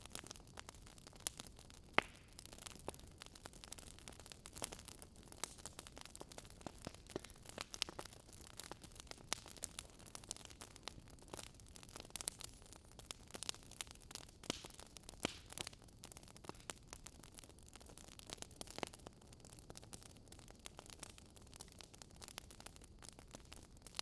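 Wood fire crackling faintly: irregular sharp pops and snaps over a soft steady hiss.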